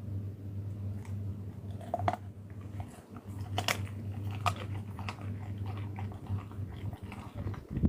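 An animal chewing and crunching food, with a few sharper crunches around the middle, over a steady low hum.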